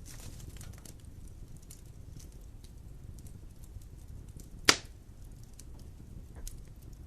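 Wood fire burning in a fireplace: a low steady rumble of flames with scattered small crackles, and one loud sharp pop about two-thirds of the way through.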